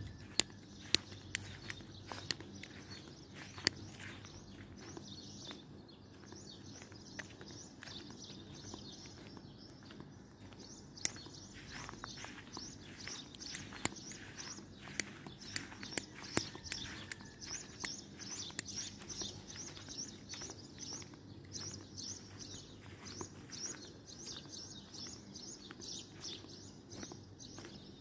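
Small birds chirping over and over, busier in the second half, with scattered sharp clicks and a low steady background hum.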